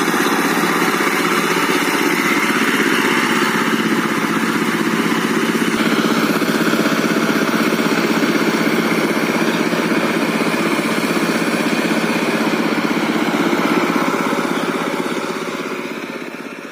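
Diesel engine of a rotary-tiller walking tractor running steadily. Its note shifts slightly about six seconds in, and the sound fades out near the end.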